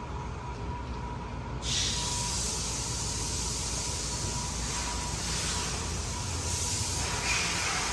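2006 Cummins ISX 15-litre turbocharged six-cylinder diesel running on a test run, a steady low rumble. A loud, even hiss comes in suddenly about a second and a half in and holds.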